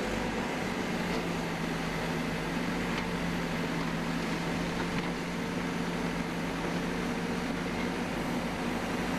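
Backhoe's diesel engine running at a steady, unchanging pitch.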